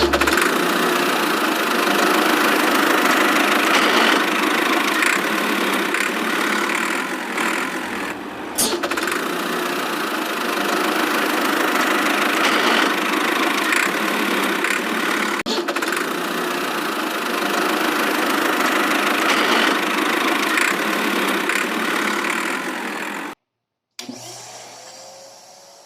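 A small motor runs steadily, a dense mechanical whirring with a few clicks, then cuts off abruptly near the end and a brief fading tail follows.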